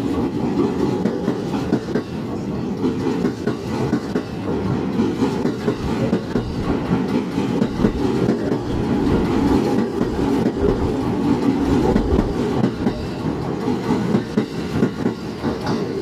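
JR East E231 series electric train running along the track, its wheels clicking over rail joints on top of a steady low running rumble.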